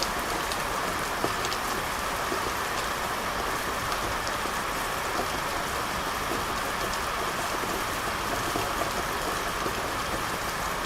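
Steady rain falling: an even, constant hiss, with scattered single drops ticking now and then.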